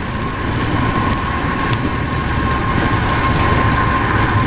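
Car running along a wet road, heard inside the cabin: a steady low road and engine rumble under a hiss of tyre spray and rain, with a thin steady whine held throughout.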